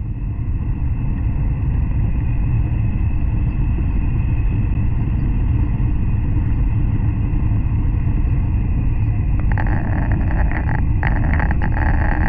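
N700 series Shinkansen running at speed, heard from inside the car as a steady low rumble. From about three-quarters of the way in, irregular rattling clicks join it.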